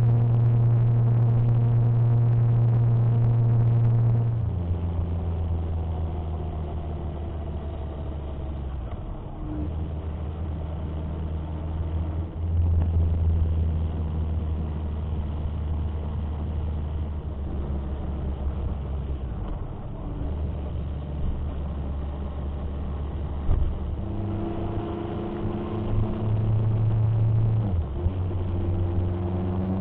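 Motorcycle engine running on the move, its note holding steady for a few seconds at a time and then stepping lower or higher as the revs change.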